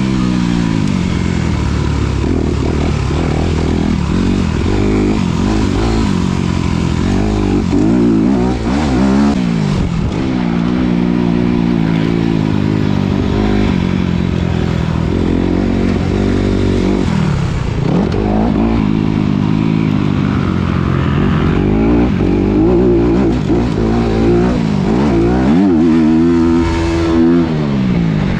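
2019 Honda CRF250RX's single-cylinder four-stroke engine under hard riding, revving up and falling back again and again as the throttle is worked through the gears. Its pitch drops deeply twice, around 17 seconds and 26 seconds in, before climbing again.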